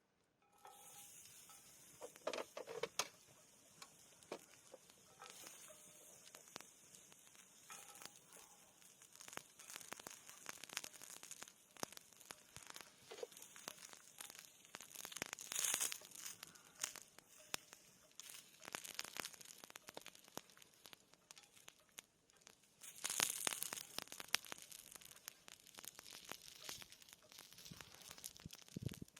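Wood fire crackling and popping over a steady hiss, starting about half a second in; the crackling grows busier twice, around the middle and again near the three-quarter mark.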